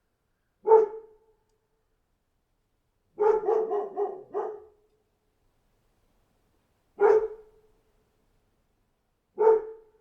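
A dog barking: one bark, then a quick run of about five barks, then two more single barks a couple of seconds apart.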